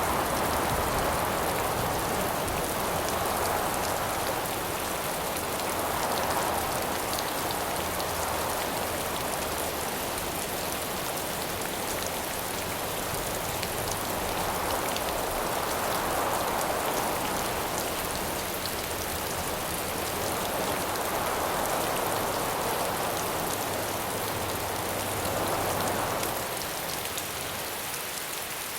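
Steady rain falling, with gusts of wind swelling and fading every few seconds.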